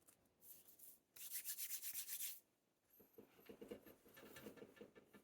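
Close-miked rubbing and scraping from hands working a succulent planting: a brief rustle, then a brisk scrape of about a second and a half, and after a pause a run of small crackling ticks like soil or gravel being stirred.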